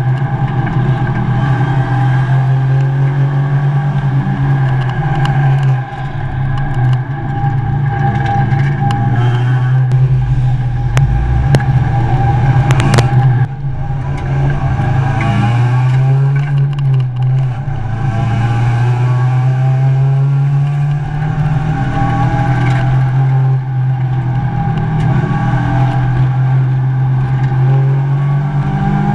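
Mazda MX-5 race car's four-cylinder engine heard from inside the cockpit, running at changing revs with lifts and gear changes. A few sharp clicks come between about ten and thirteen seconds in, followed by rising revs.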